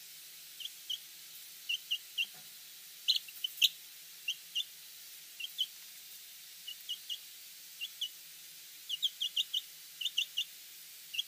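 Turkey poults peeping: short, high peeps, singly and in quick runs, coming thicker near the end, over a faint steady hiss.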